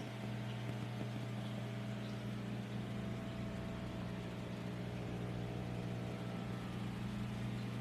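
Steady low hum of a machine or appliance running in a small room, with no other events.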